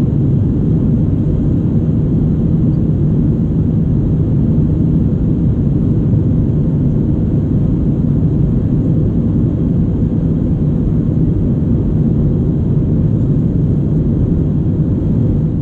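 Steady cabin noise of an Airbus A319 in flight: jet engine rumble and airflow heard from inside the passenger cabin, fading away at the very end.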